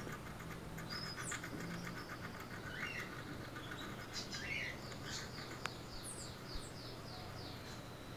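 Faint birds chirping in the background: scattered short calls, then a quick run of falling chirps in the second half. A single sharp click sounds a little past halfway over a low steady hum.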